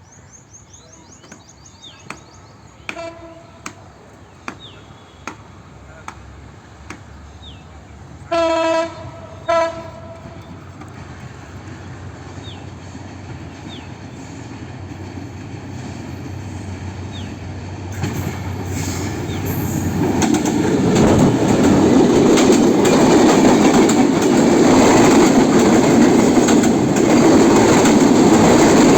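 Train horn sounding a short toot, then two longer blasts about eight to nine seconds in, as the train approaches. Its rumble grows steadily and, from about two-thirds of the way through, the train passes close and loud with wheels clattering over the rails.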